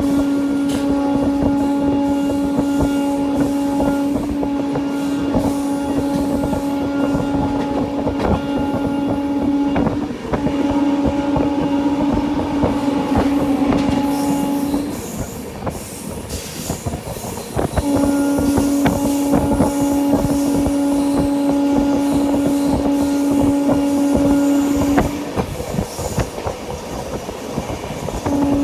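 Train running at speed on the Indian Railways line, with a steady rumble and the clatter of wheels on the track, over which a train horn sounds in long, steady blasts. The horn breaks off for a moment about ten seconds in, then falls silent for a few seconds at around fifteen seconds and again near twenty-five seconds.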